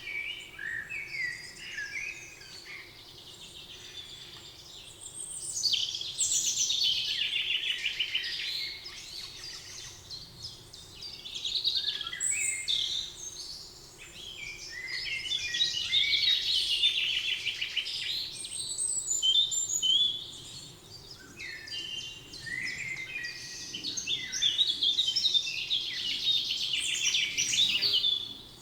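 Several songbirds singing in a spring forest, with overlapping high chirping and trilling phrases that swell and fade in spells, over a faint steady background hum.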